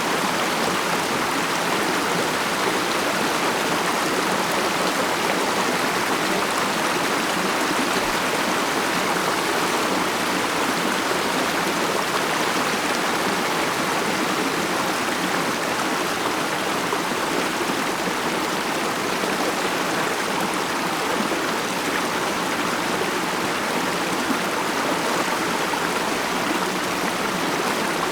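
Mountain stream flowing over rocks: a steady, even babble and rush of water.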